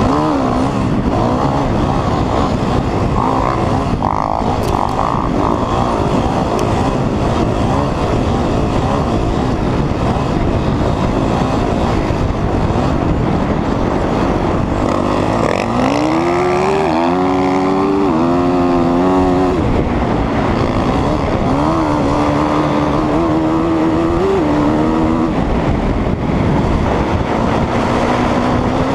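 Dirt bike engine running hard under throttle. Its pitch climbs and drops in steps around the middle, then holds steadier.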